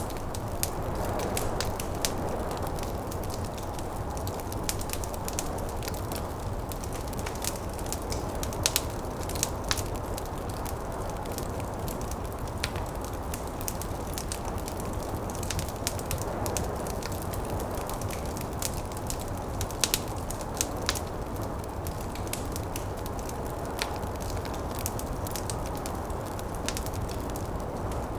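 Wood fire crackling, with frequent sharp pops and snaps, over a steady low rush of snowstorm wind that swells and eases.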